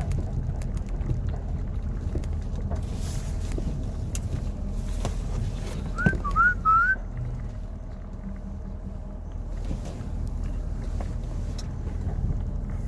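Idling/low-speed rumble of a Ford F-250's 6.7-litre Powerstroke V8 turbo diesel during snow plowing. About six seconds in come three short rising chirps.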